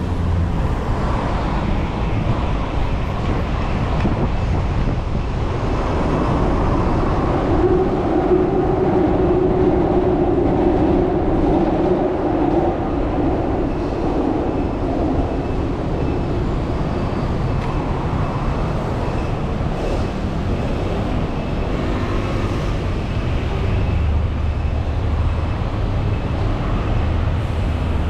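Busy city street traffic with a steady low rumble. A louder passing vehicle swells from about six seconds in and fades again by about fifteen seconds.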